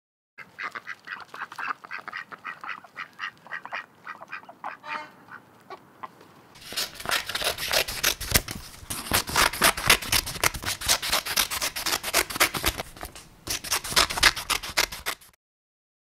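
Duck quacking in a quick series of calls for the first six seconds or so. Then, louder, scissors cutting through paper in a rapid run of sharp snips, with a brief break near the end before the last cuts.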